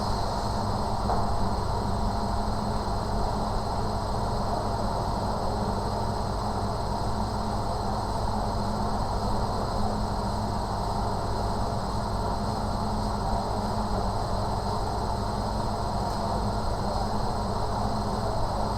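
Steady background rumble and hum with a faint high whine, unchanging throughout.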